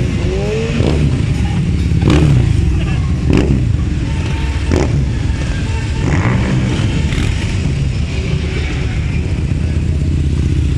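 Several Harley-Davidson V-twin motorcycle engines running at low revs in a steady, loud rumble, with a few brief sharp sounds cutting through it.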